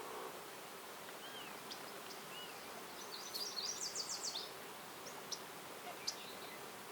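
Wild birds calling in a forest: a couple of short whistled notes, then a quick run of high chirps about three seconds in, and a few sharp single chips near the end, over steady outdoor background noise.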